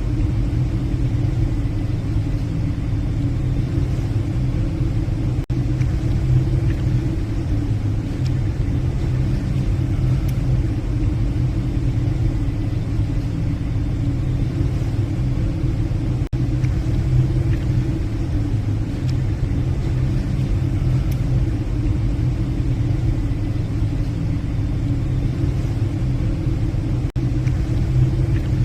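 Steady low drone of a passenger ship's engines and machinery, heard from the bridge while under way.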